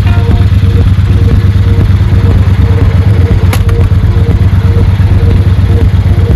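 Triumph Bonneville Bobber's parallel-twin engine running steadily, a loud, even low rumble. There is a single sharp click about three and a half seconds in.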